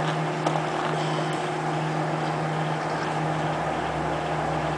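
Microwave oven running with a steady hum and hiss, a mobile phone burning inside it, with a few faint ticks about half a second and a second and a half in.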